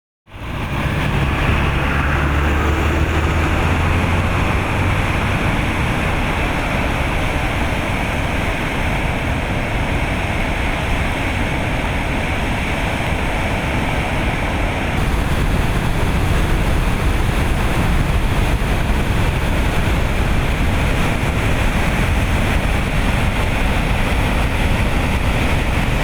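Floodwater rushing loud and steady down Kanab Creek, with a low steady hum for the first few seconds and the rush getting slightly louder about halfway.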